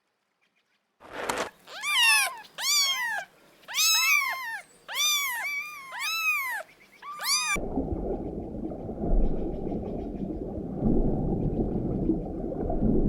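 A cat meowing repeatedly: about eight high meows, each rising and then falling in pitch. About halfway through this gives way to a steady low rumble that starts abruptly.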